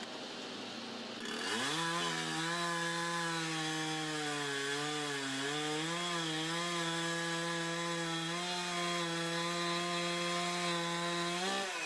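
Two-stroke chainsaw revving up to full throttle and running hard, its pitch dipping and wavering as it cuts through wood. Near the end it revs briefly higher, then winds down and stops.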